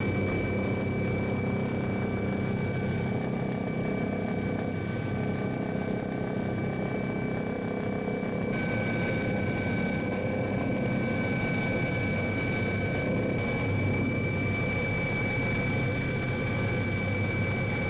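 Steady helicopter engine and rotor noise with a constant high whine, shifting slightly about eight and a half seconds in.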